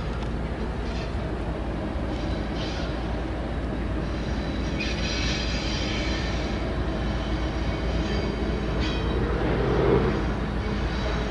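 Union Pacific freight train rolling past with a steady rumble of wheels on rail. High-pitched wheel squeal rises and fades several times, loudest about halfway through.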